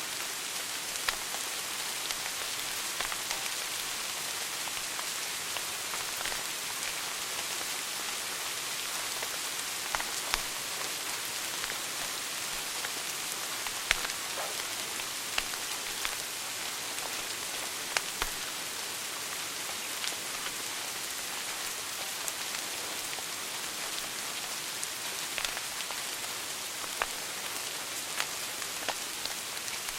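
Wood fire burning in a fireplace: a steady high hiss with irregular sharp crackles and pops scattered through it.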